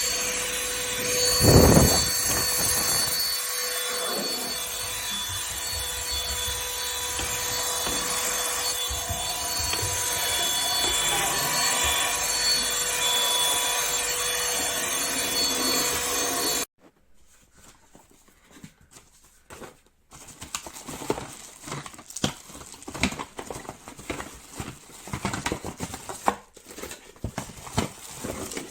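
Cordless stick vacuum cleaner's motor running with a steady whine, stopping abruptly a little over halfway through. Irregular light clicks and knocks follow.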